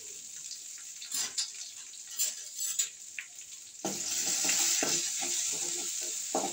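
Spices, dry red chillies and crushed garlic sizzling in hot oil in a kadai: a rasam tempering frying. A few scattered clicks at first, then about four seconds in the sizzle jumps up loud as a steel spoon stirs and knocks against the pan.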